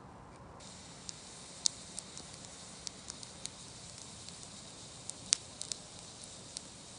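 Wood campfire crackling: a steady hiss with irregular sharp pops and snaps, one loud snap about five seconds in.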